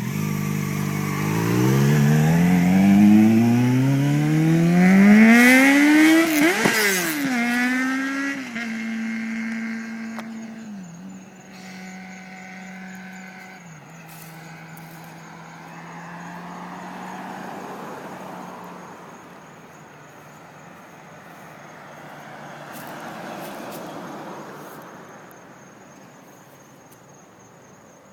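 Kawasaki ZX-6R 636 sport bike's inline-four with a Jardine aftermarket exhaust accelerating hard toward the listener, its pitch rising steadily for several seconds. It passes close at its loudest, with a sharp drop in pitch, then shifts up a few times as it pulls away and fades. Crickets chirp faintly in the later part.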